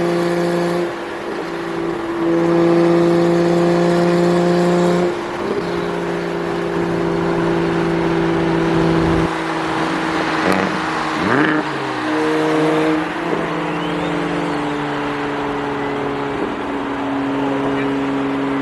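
A BMW 335i's single-turbo N54 inline-six engine running under way, its note holding steady for a few seconds at a time and then shifting pitch several times, with road noise underneath.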